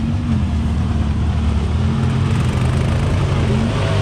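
Tractor engine running close by under load, its speed rising and falling a little.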